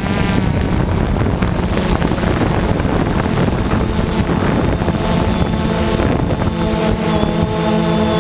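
Motocross bike engines running, with wind buffeting the microphone. About six and a half seconds in, a steady pitched drone sets in.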